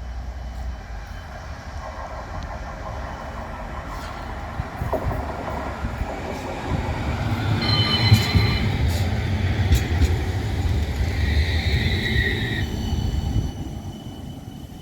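Tram passing on its rails: a wheel rumble that builds to its loudest in the middle, with a brief high wheel squeal about eight seconds in and another around eleven to twelve seconds.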